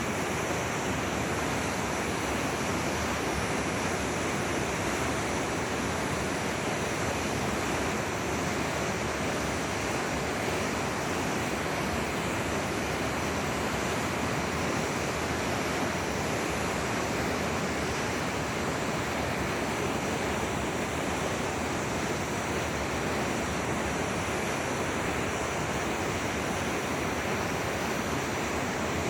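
A forest stream flowing, a steady even rush of water with no change throughout.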